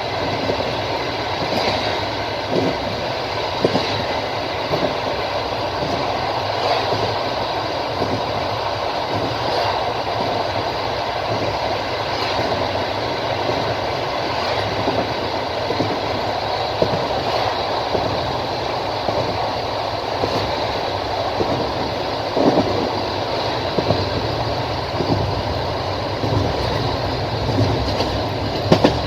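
Passenger train carriage rolling along the line with a steady rumble, its wheels knocking over rail joints now and then, with clusters of clacks about three-quarters through and again near the end.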